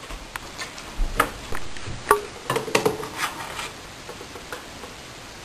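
Kitchen utensils clinking and tapping against dishes: a dozen or so light, sharp clicks from about a second in until past the three-second mark, then quiet.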